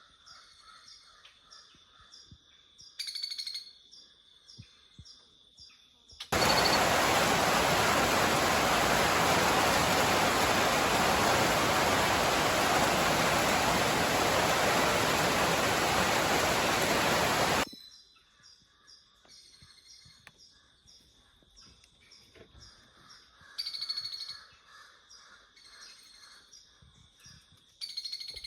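Rainforest birds chirping in repeated short phrases over a steady high-pitched tone, with a few brief louder calls. A loud, even rushing noise cuts in suddenly about six seconds in, covers everything for about eleven seconds, and then stops just as suddenly.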